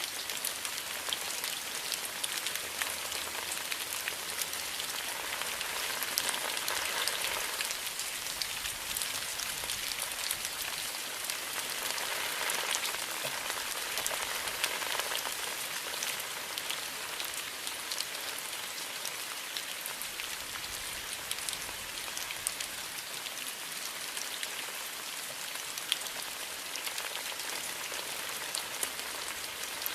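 Steady rain falling, a continuous hiss with a dense patter of individual drops ticking through it.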